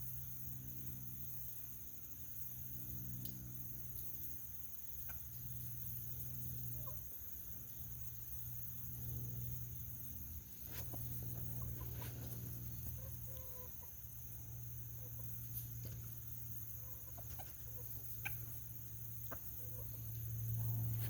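Backyard chickens clucking softly on and off, over a steady low hum.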